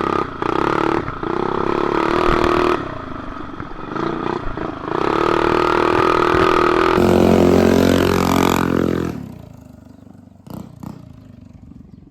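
A mini bike's small single-cylinder four-stroke engine running hard under load, its pitch rising and falling with the throttle, then dropping away sharply about nine seconds in.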